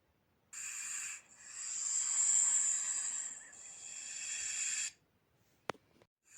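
Snake hissing: a short hiss, then a long hiss of about three and a half seconds that swells and fades. A single sharp click comes near the end.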